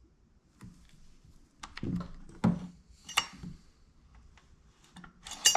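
A few scattered sharp clicks and knocks from handling the chainsaw and tools at close range, two of them with a brief metallic ring.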